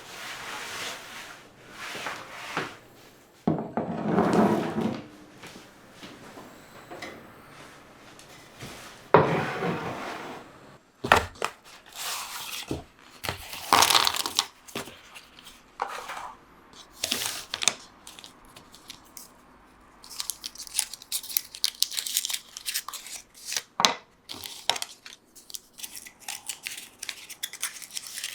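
Kitchen handling sounds while baking: a series of short rustles, crinkles and tears with sharp clicks of dishes, and a quick run of small clicks near the end.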